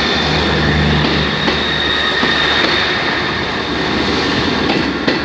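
Class 158 diesel multiple unit running, a steady low diesel drone.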